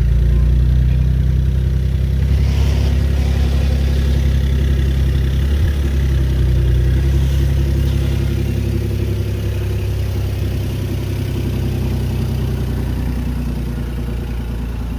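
Electric hand sander running steadily against a wheel rim, a constant motor hum with a grinding hiss on top.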